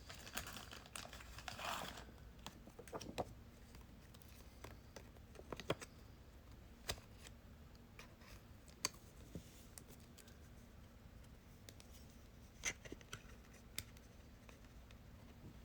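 Faint rustling and scattered light clicks and taps from handling a trading card in a small plastic protective case.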